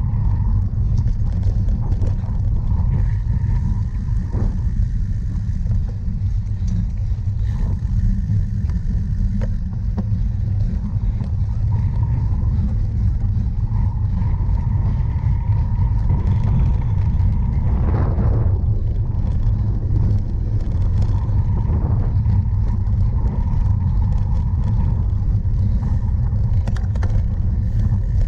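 Steady low wind rumble buffeting the microphone of a cyclocross racer's camera while riding, with scattered clicks and rattles from the bike over rough ground.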